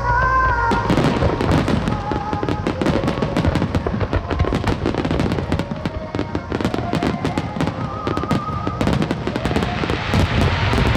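Large display fireworks bursting and crackling in rapid succession, many reports overlapping, with a sung ballad playing over them.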